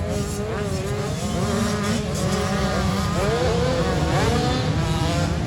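Several motocross bike engines revving at once, their pitch rising and falling repeatedly as they accelerate and shift, over a steady low rumble.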